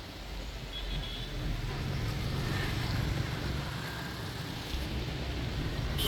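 Low rumble of a moving bus and road traffic heard from aboard the bus, growing louder about a second in, with a sharp click near the end.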